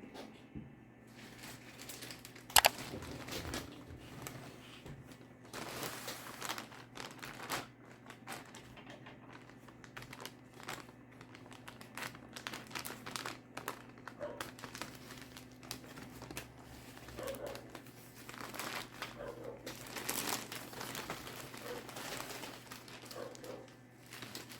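Plastic packaging being handled and unwrapped, crinkling and rustling in irregular bursts over a faint steady hum, with one sharp click about two and a half seconds in.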